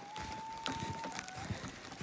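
A dog whining once: a thin, high, steady whine lasting about a second and a half, dropping slightly in pitch as it fades, with faint crunching steps in snow.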